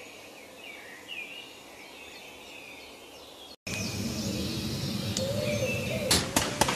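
Outdoor ambience with birds chirping now and then. A cut about three and a half seconds in brings a louder ambience, still with bird chirps. Near the end a quick run of sharp knocks begins.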